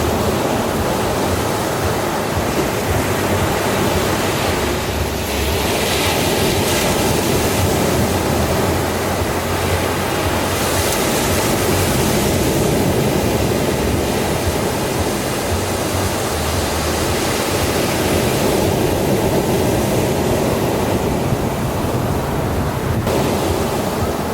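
Ocean waves washing in a steady roar of surf that swells and eases slowly every few seconds.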